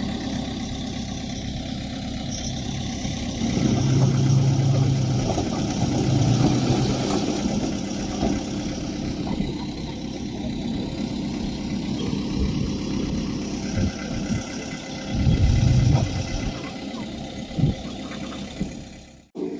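Diesel engine of earthmoving machinery running, with two louder spells, about four seconds in and again near fifteen seconds, as it works under load.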